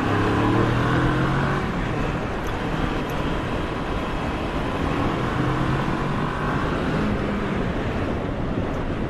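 Motorcycle engine running under way, its pitch climbing in the first second or two, with a heavy rush of wind and road noise on the microphone.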